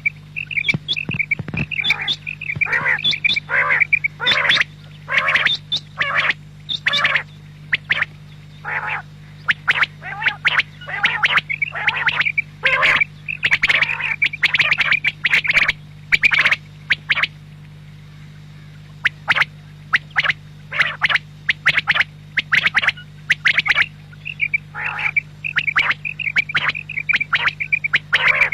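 Quail calling over and over, short sharp notes in quick clusters with brief pauses between them, over a steady low hum.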